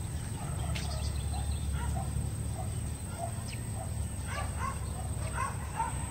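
Birds calling in short, repeated chirps, several a second and busiest in the second half, over a steady low rumble.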